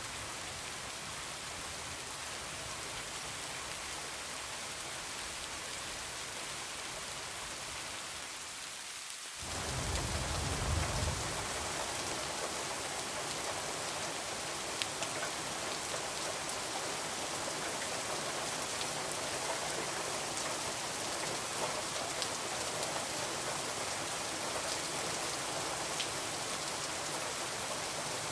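Steady heavy rain falling on surfaces. About nine seconds in, the rain abruptly gets louder and fuller, with a low rumble for a couple of seconds, then carries on with scattered sharp ticks of drops.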